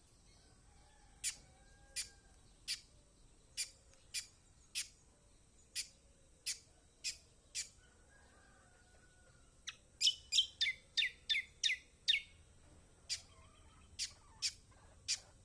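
Kecial kuning (yellow white-eye) giving sharp, high 'ciak' chirps spaced about half a second to a second apart, then breaking into a quick run of about eight falling chirps about two-thirds of the way through before going back to single chirps.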